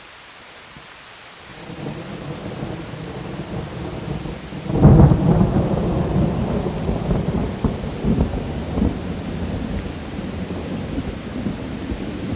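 Steady rain with thunder. A low rumble builds about a second and a half in and breaks into a loud clap about five seconds in, then rolls on under the rain.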